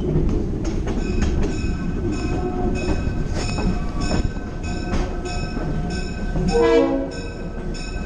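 Passenger train running with a steady low rumble while its bell rings regularly, about three strokes a second. Near the end the train's horn gives a short blast.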